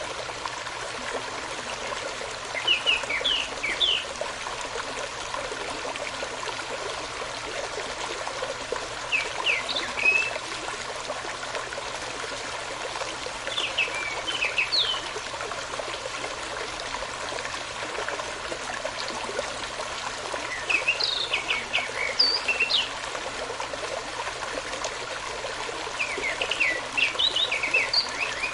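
A stream running steadily, with a songbird singing five short phrases of quick high chirps spaced a few seconds apart.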